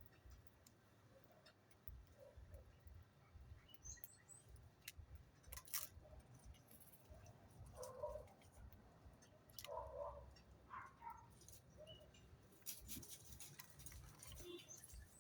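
Faint, scattered bird calls and chirps, with short clicks and taps in between.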